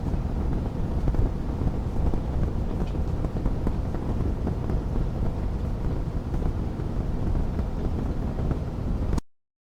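Fireplace fire burning with a steady low rumble and fine crackles. The sound cuts off abruptly to total silence near the end.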